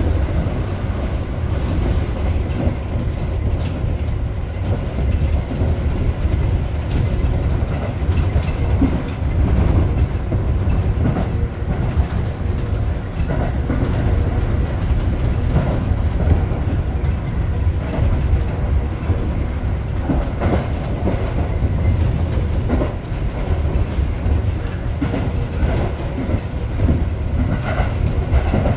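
Tobu 8000-series electric commuter train running between stations. A steady low rumble with irregular clicks and knocks from the wheels passing over the rails.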